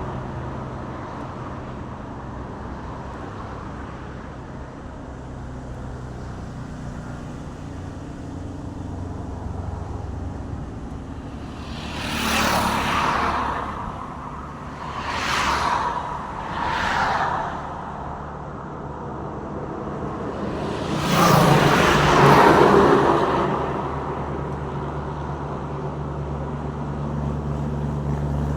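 Road traffic: a steady low engine hum, with vehicles rushing past four times, three brief passes in a row and then the loudest, longest one about three-quarters of the way through.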